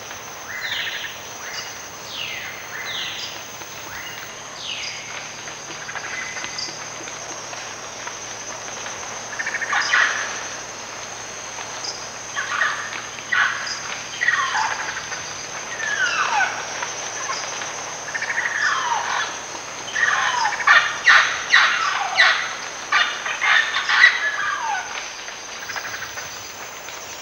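Tropical rainforest birds calling: many short whistled notes that slide downward in pitch, sparse at first and coming thick and fast in the second half, over a steady high insect buzz.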